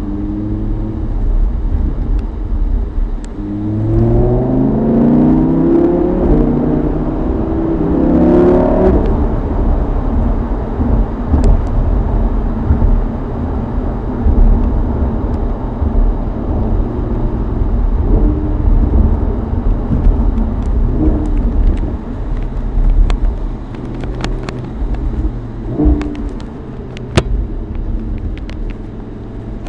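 Lamborghini Huracán Spyder's V10 engine heard from the open cockpit. About four seconds in the revs climb, drop briefly at a gear change, then climb again. After that the engine settles to a lower, steadier drone under road and wind noise.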